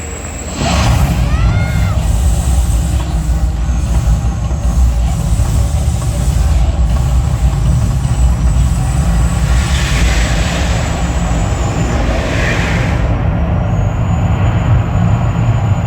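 Artificial volcano show erupting: a loud, deep, steady rumble starts suddenly about half a second in and carries on, with two short hissing bursts about ten and twelve seconds in.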